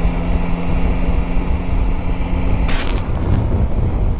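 Motorcycle riding at road speed: wind rushing over the microphone with the engine running steadily. There is a short hiss about three seconds in.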